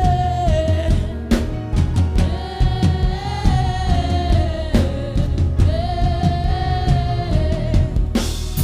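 Gospel worship music: a voice sings three long held phrases over a drum kit, with a loud crash just before the end.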